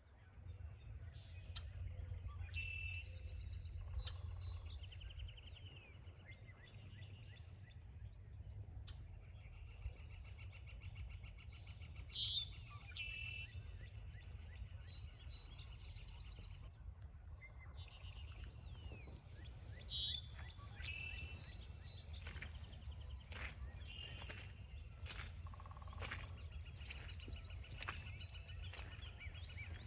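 Several songbirds singing and calling, with repeated trilled songs, over a steady low rumble. From a little past halfway, regular crunching footsteps on the trail, about two a second.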